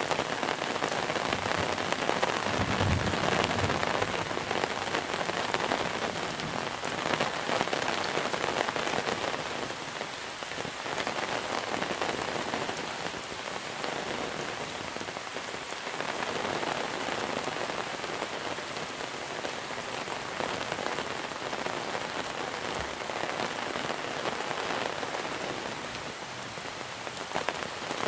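Heavy monsoon rain falling steadily, a dense patter of drops that swells and eases a little, with a brief low thump about three seconds in.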